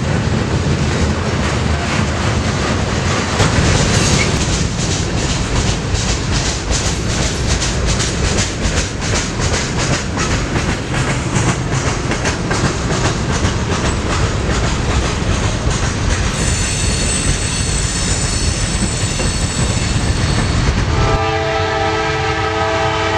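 Norfolk Southern manifest freight train rolling past close by, its wheels clicking rapidly over the rail joints under a steady rumble. A high-pitched squeal comes in about two-thirds through and lasts several seconds. Near the end a multi-note locomotive air horn starts and keeps sounding.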